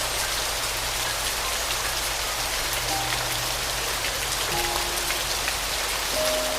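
Steady rain, with a few soft piano notes sounding now and then.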